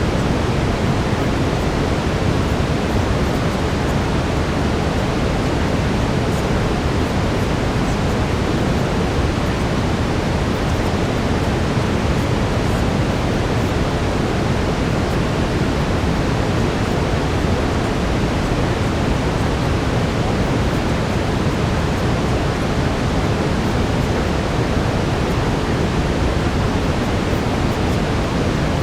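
Steady brown noise: an even, unchanging hiss and rumble, heaviest in the low end.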